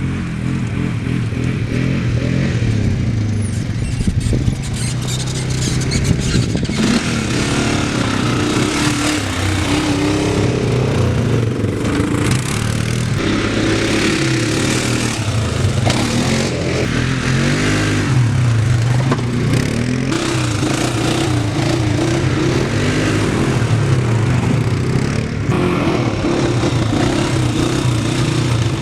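Dirt bike engine running under load, its pitch rising and falling again and again as the throttle is opened and closed, with steady wind rush over it.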